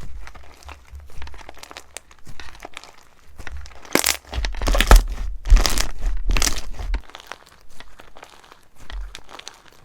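Slime being squeezed and pressed by hand, giving off fine crackling and crunching. It is loudest in a dense stretch from about four to seven seconds in, with dull low thuds under the crackle.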